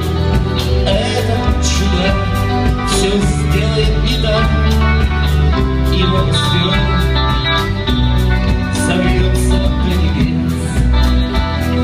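A band playing an instrumental passage: guitar over a deep, steady bass line, with a regular beat.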